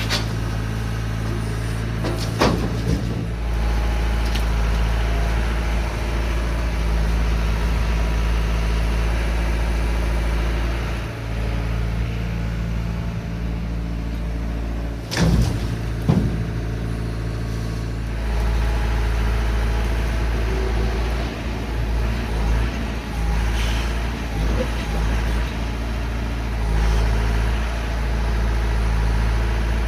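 Chevrolet C50 dump truck's engine running steadily, with a few sharp knocks: one a couple of seconds in and two close together about halfway through.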